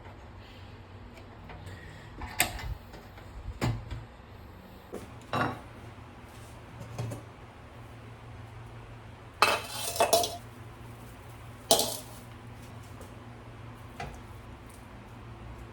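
Hard objects being handled and set down: a scatter of separate sharp clinks and knocks, with a busier clatter about two-thirds of the way through.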